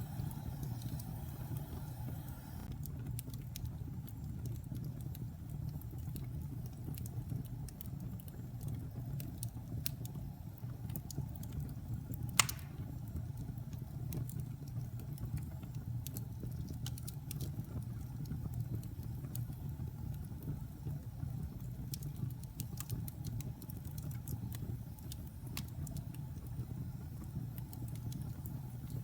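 Fire burning in a fireplace: a steady low rumble of flame with scattered small crackles, and one sharp, loud pop near the middle.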